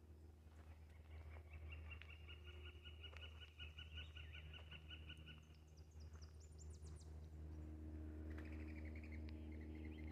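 Faint songbirds singing: a long, even trill of rapid repeated notes lasting about four seconds, a run of high quick chirps, then the trill again near the end.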